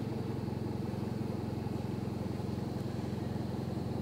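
A vehicle engine idling steadily: an even low drone with a fast regular pulse that stays unchanged throughout.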